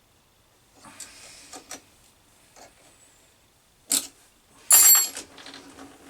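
Metal tools and parts being handled on a workbench: scattered clicks and clatter, a sharp click about four seconds in, then the loudest, a brief metallic clatter with a ringing edge.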